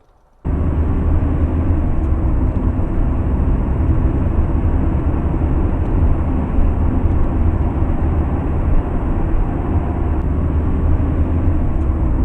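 Loud, steady low rumble of a vehicle in motion. It starts abruptly about half a second in and cuts off suddenly near the end.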